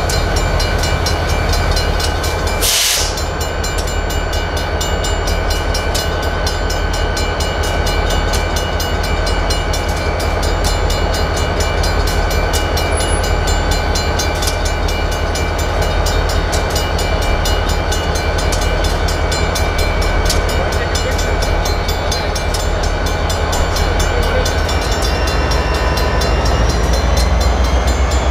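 A train passing through a railroad grade crossing: a steady, continuous rumble under a rapid, even ringing from the crossing signal, with a short hiss about three seconds in. The rumble grows louder near the end.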